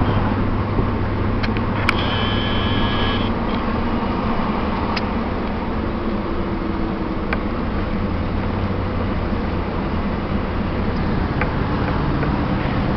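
Steady road and engine noise of a car being driven, heard from inside the cabin, with a short high tone about two seconds in.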